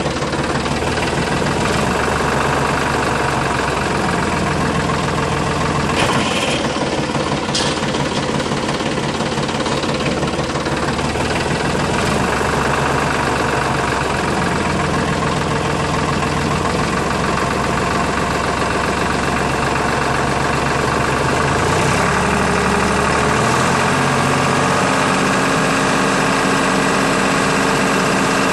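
A tractor-like engine running steadily at idle with a knocking beat. Its low note shifts every few seconds and steps up to a higher pitch near the end.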